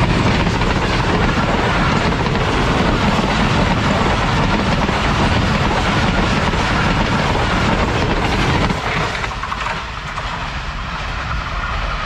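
Passenger train with a ZCU-20 diesel-electric locomotive running through at speed close by: a loud, steady rumble and clatter of wheels on the rails as the coaches roll past. About nine seconds in the noise drops as the last coaches go by, and it fades off.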